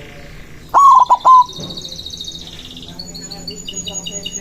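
White zebra dove (perkutut) cooing one loud, short phrase of three notes about a second in, each note dropping off sharply at its end. Smaller birds chirp and trill high in the background.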